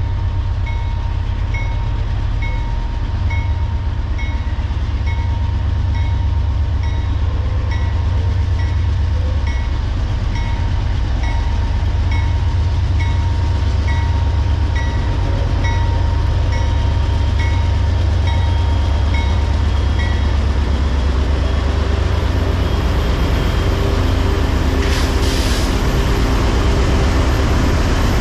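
Diesel locomotives and covered hopper cars of a long freight train running with a loud, steady low rumble. A regular high ding, about one and a half a second, sounds over it and stops about two-thirds of the way through. Steady engine tones then rise over the rumble.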